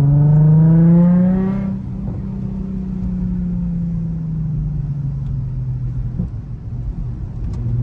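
Nissan 350Z Nismo's 3.5-litre V6 through its Nismo exhaust and Tomei single-exit axle-back, pulling hard with a rising note for under two seconds. Then the note drops in level and falls slowly as the throttle eases off.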